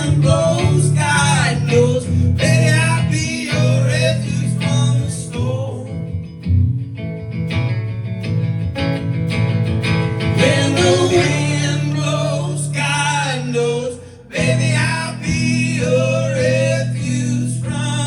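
Live band performing a song, with singing over guitar and a steady bass line; the music dips briefly about fourteen seconds in.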